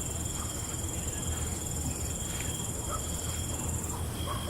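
Night-time insect chorus of crickets: a continuous high trill that breaks off briefly near the end, a fainter second trill lower down, and a few faint short chirps, over a low steady hum.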